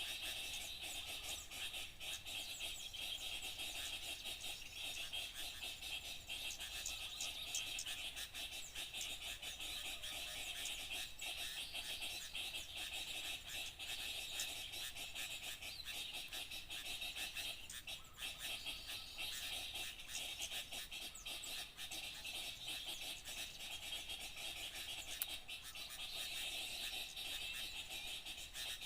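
Dense chorus of small songbirds chattering, many quick high calls overlapping without a break.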